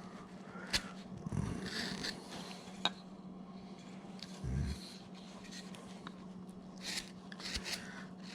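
Hand gouge cutting into a wooden carving blank in short strokes: scattered scraping cuts and sharp clicks, with a low thump about halfway through, over a faint steady hum.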